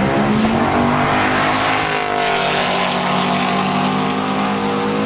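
A race car's engine held at high revs, its pitch creeping up over the first couple of seconds and then holding steady.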